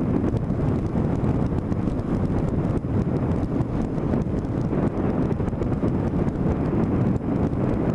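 Steady wind rush buffeting the microphone of a camera clamped to a motorcycle riding at road speed, with the bike's engine and road noise mixed in underneath.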